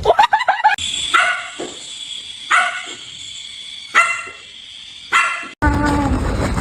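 A dog barking: a quick run of yips at first, then single barks about every second and a half. Near the end the sound cuts abruptly to a steady rumbling noise.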